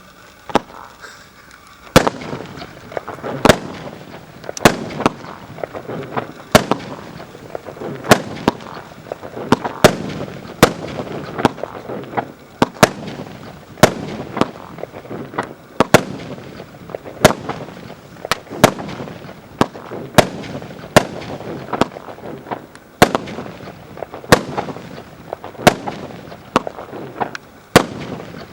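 A consumer fireworks battery (cake) firing shot after shot: sharp bangs about one a second, with crackling between them.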